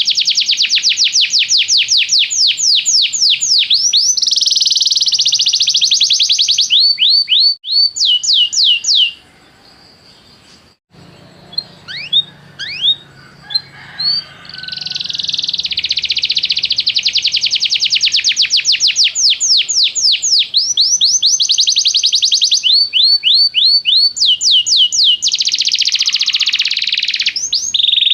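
Domestic canary singing: long, high-pitched trills of rapid, repeated down-sweeping notes. A pause about a third of the way in holds only a few single chirps for some seconds before the trilling resumes.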